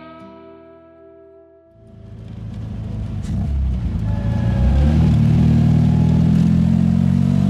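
A last plucked note of background music rings out and fades. About two seconds in, the 1966 MGB's 1.8-litre four-cylinder engine comes in while driving, growing louder over a few seconds and then running steadily.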